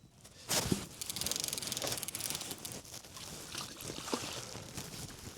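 A fishing reel cranking in a small catfish, heard as a rapid run of even ticks, with a sudden splash-like rush just before it and small knocks and rustles of handling afterwards.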